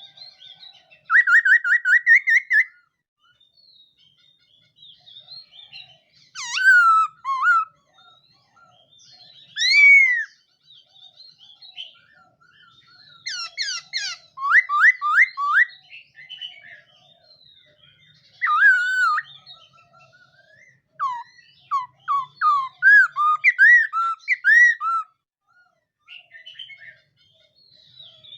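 Laughingthrush (khướu mun) singing: a string of separate whistled phrases of rising and falling notes, some of them quick runs of repeated notes, with short pauses between.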